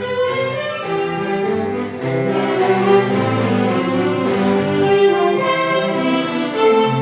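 A band playing a praise song, mainly bowed strings such as violin and cello, in smoothly held notes.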